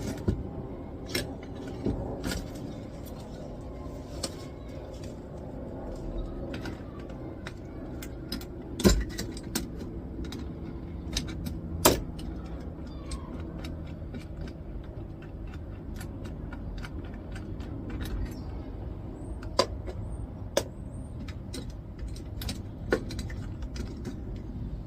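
Hand tools and metal parts clicking and knocking as a small brass bolt is worked out of the back of an old electricity meter, with two louder knocks about nine and twelve seconds in, over a steady low hum.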